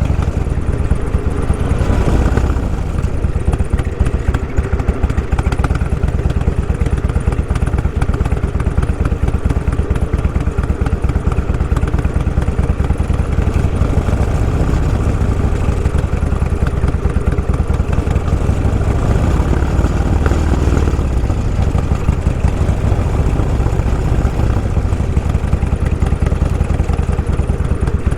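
Motorcycle engine running steadily under way, with a fast, even exhaust pulse.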